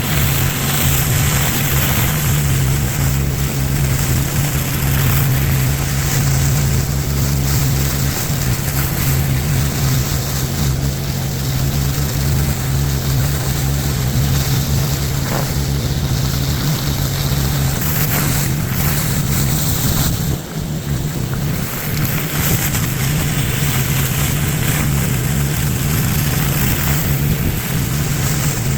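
Engine-driven pressure washer running steadily under load, with the hiss of high-pressure water spraying; the sound dips briefly about two-thirds of the way through.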